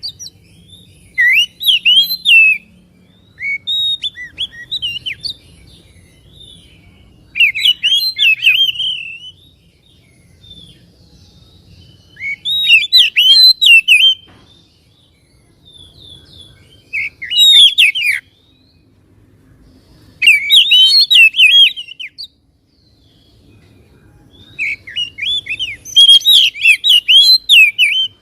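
Oriental magpie-robin singing in about seven bursts of rapid, varied whistles and twitters, each lasting one to three seconds, separated by short pauses; the longest phrase comes near the end.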